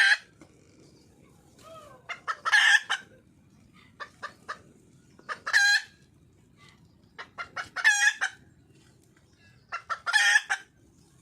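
Wild junglefowl hen calling, a hen's call for a mate. A bout of clucking calls comes every two seconds or so, each a quick run of short notes ending in a longer pitched call.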